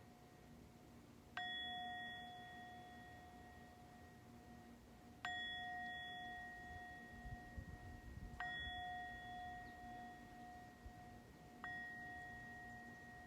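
A metal chime struck four times, a few seconds apart, each strike ringing on in the same clear tone and fading slowly.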